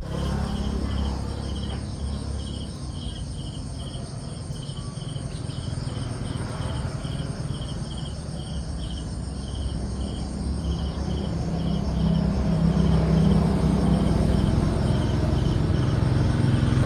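Insect chirping in a steady rhythm, short high chirps about two a second, over a loud low rumble.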